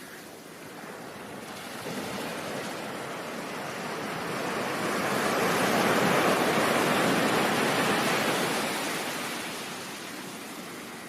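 Ocean surf: one wave's wash swells up over a few seconds, peaks mid-way, and recedes near the end.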